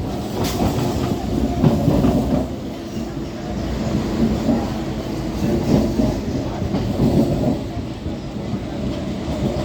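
MMTS suburban electric train running along the track, a steady rumble with irregular knocks and clatter from the wheels.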